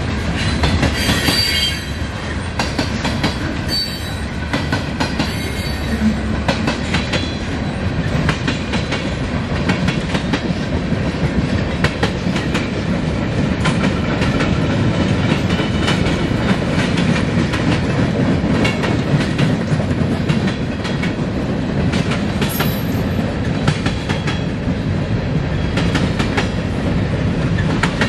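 Freight train cars, mostly tank cars and covered hoppers, rolling past at a steady pace: a continuous rumble with wheels clacking over rail joints. Brief high-pitched wheel squeals come in the first few seconds and again about three-quarters of the way through.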